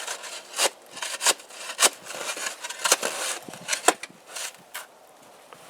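A shovel chopping and scraping at frozen snow and ice: about five sharp, irregular strikes with gritty scraping between them, fading out in the last second or so. The mower it is dug around is frozen in.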